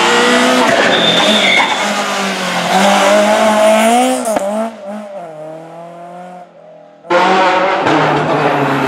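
Rally car engines running hard on a stage, the pitch climbing and dropping with revs and gear changes, with a brief high squeal about a second in. The car fades away and goes quiet, then the sound cuts abruptly to another car running loud near the end.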